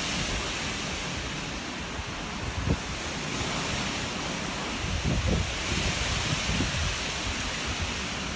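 Steady rushing outdoor noise, with low buffeting thumps from gusts hitting the microphone a few times.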